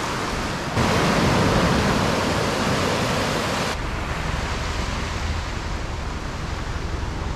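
Ocean surf washing onto a beach: a steady rushing noise that gets louder about a second in and changes abruptly again near four seconds.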